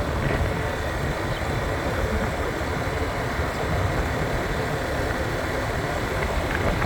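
Motorbike being ridden along a road, its engine running steadily under a constant low rush of wind and road noise.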